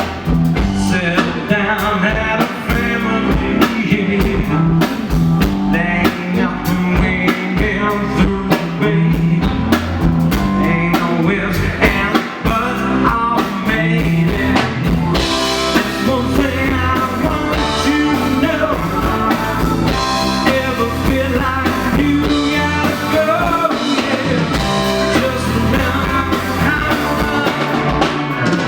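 Live rock-and-roll band playing loudly, with drum kit, guitar and bass driving a steady beat.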